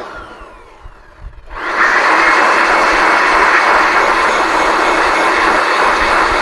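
An electric blower's motor and air rush cut off at the start, spin down with a falling whine, then switch back on about a second and a half later and run steadily.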